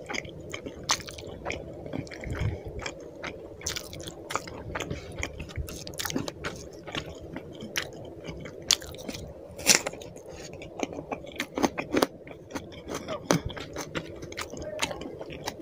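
Close-up eating sounds of rice and fish curry eaten by hand: wet chewing and irregular smacking mouth clicks, with the squelch of fingers mixing rice into the curry. The loudest smack comes near the middle.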